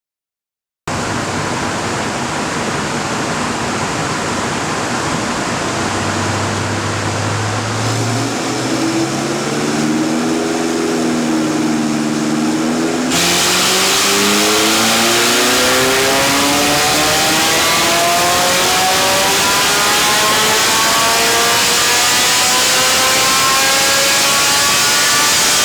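Ferrari 458 Spider's 4.5-litre naturally aspirated V8 on a chassis dyno, making a power run. A loud steady rush of noise starts about a second in. The engine holds a steady note, begins to rev up about eight seconds in, and about thirteen seconds in turns louder and brighter, its revs climbing steadily through the rest of the pull.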